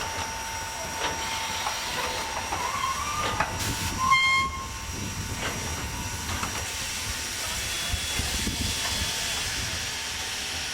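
Steam locomotive under steam, with hissing and scattered clicks over a steady high tone, and one short whistle blast about four seconds in.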